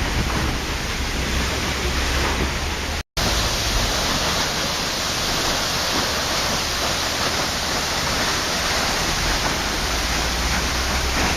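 Waterfall with steady, loud rushing water and no other sounds, broken by a split-second silent gap about three seconds in.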